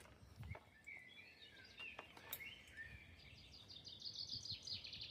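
Songbird singing faintly: a string of quick warbling notes, then a fast trill near the end.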